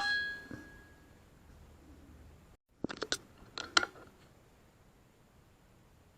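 A sharp metallic clank rings out briefly and fades, then comes quiet, then two quick clusters of sharp clicks and clacks about three seconds in.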